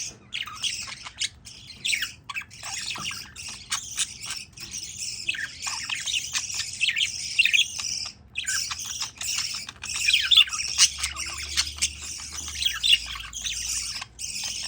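Budgerigars chirping and squawking in a fast, near-continuous stream of short, high chirps, with only brief pauses.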